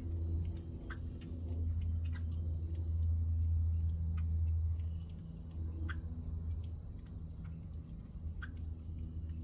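Backyard outdoor ambience: a steady low rumble under a constant high insect-like drone, with scattered short chirps and ticks, some of them small birds calling.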